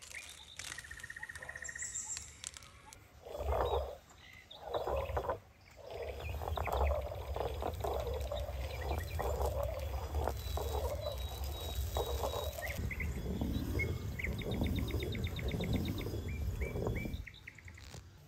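Small birds chirping, with a quick ticking trill near the end, over a louder low, rough rumbling noise. The rumbling starts with two short bursts, then runs steadily and stops shortly before the end.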